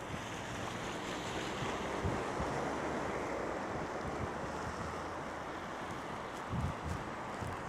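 Wind blowing through a snowstorm: a steady rush, with gusts buffeting the microphone in a few low thumps, the strongest near the end.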